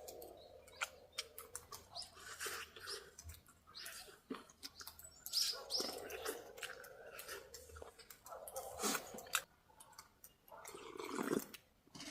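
Close-miked eating sounds from boiled chicken: chewing and lip-smacking, with many small wet clicks and squeaks from the mouth and a few longer mouth noises.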